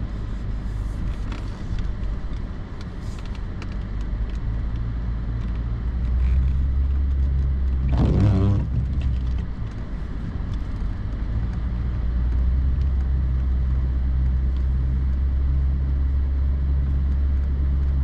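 Pickup truck engine running, heard from inside the cab as the truck plows snow, a steady low drone that gets louder about six seconds in. A brief voice-like sound comes about eight seconds in.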